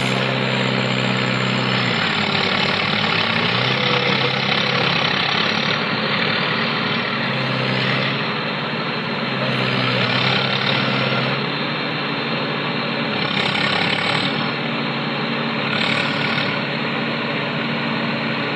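Diesel tractor engine running steadily, its pitch rising and falling a little.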